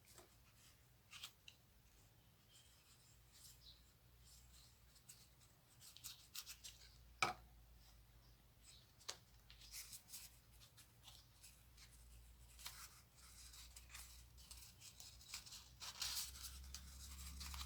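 Near silence with faint handling sounds: light taps, clicks and rustles of small craft pieces being positioned and pressed together by hand, with one sharper click about seven seconds in.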